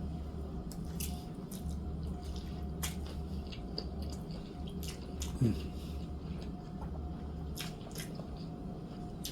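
Close-up eating sounds: wet chewing and mouth smacks with many small scattered clicks, over a steady low hum. About five and a half seconds in comes a short vocal 'mm'.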